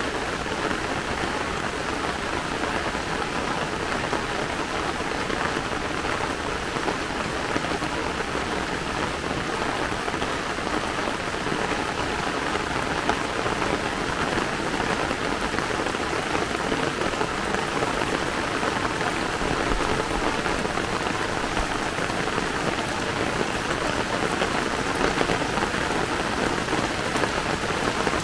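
Heavy downpour falling steadily on an umbrella, the path and the grass: a dense, even hiss of rain with many close drop hits.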